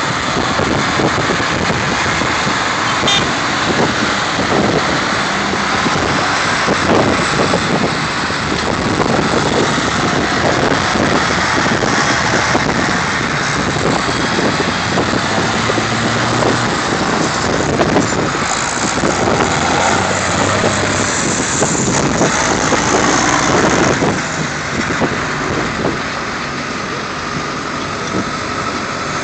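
Vintage tractor engines running as a line of tractors drives past, loud and continuous. The sound eases off a little near the end.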